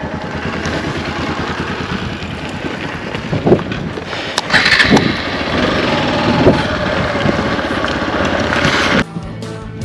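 Motorcycle engine running under way, its revs rising and falling several times over a steady rush of noise. The sound drops off sharply near the end.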